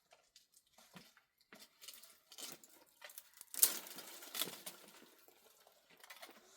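Scattered light knocks and clinks of things being handled, with a louder scraping clatter about three and a half seconds in.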